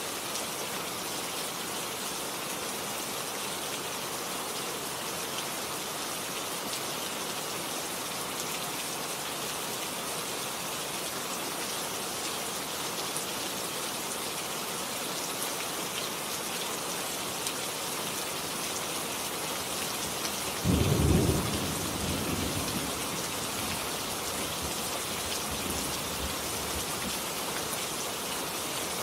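Steady rain falling throughout. About two-thirds of the way in, a thunderclap breaks in suddenly and loudly, then fades away as a low rumble over a few seconds.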